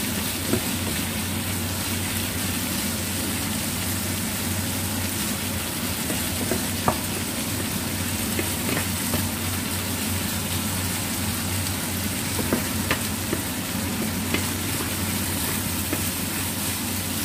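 Chicken and lemon basil stir-frying in their own fat and juices in a non-stick pan: a steady sizzle, with a wooden spatula stirring and a few sharp taps of the spatula on the pan.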